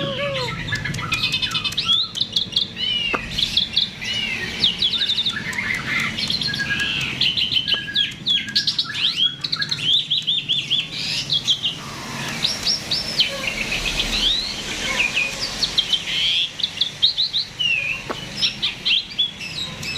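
A jalak (Indonesian starling) in continuous, energetic 'gacor' song: a fast, varied run of whistled notes, chirps and rattling trills that rise and fall, with hardly a pause.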